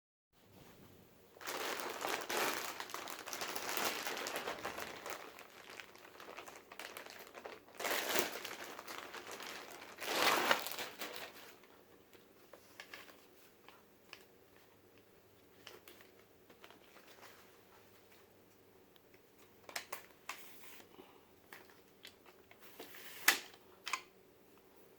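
Packaging crinkling and rustling as it is handled during the unboxing of a folding hand truck, in several stretches over the first dozen seconds. Then scattered light clicks and a few sharper knocks, the loudest near the end.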